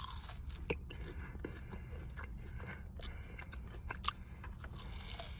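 Close-up chewing of Burger King french fries: soft bites and small scattered crunches, over a low steady hum.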